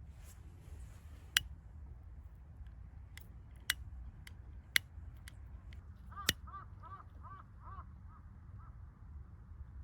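Campfire wood crackling, with a few sharp, separate pops over a low rumble. About six seconds in, a bird calls in a quick series of short notes that fade away.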